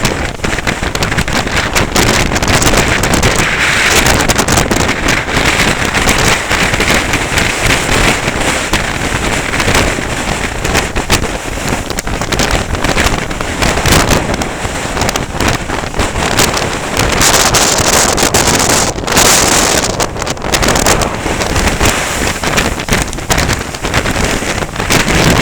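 Strong wind buffeting the camera's microphone: a loud, continuous rush with constant gusty thumps.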